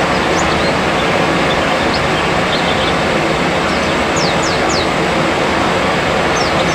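Thin, high, downward-sliding chirps of white-eyes (pleci) calling in small groups over a loud, steady noise.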